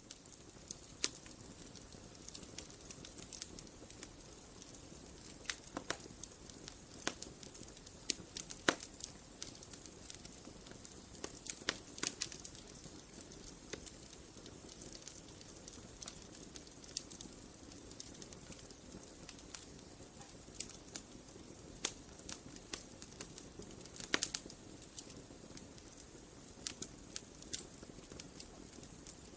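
Bonfire crackling: irregular sharp pops and snaps over a steady low hiss of burning.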